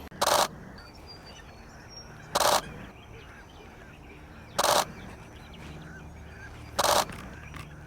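Canon 1D X Mark II shutter firing in four quick high-speed bursts, about two seconds apart, over faint background bird calls.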